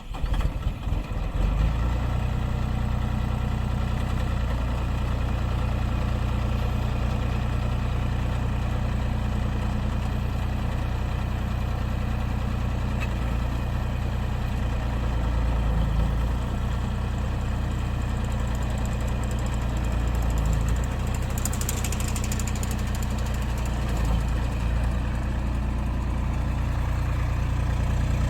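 1.8-tonne mini excavator's three-cylinder engine running steadily. Its note shifts briefly a few times, and a short hiss comes about three quarters of the way through.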